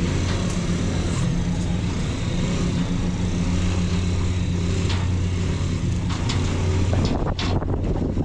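An engine running with a steady low drone under rushing noise. Near the end the hiss thins and a few short knocks sound.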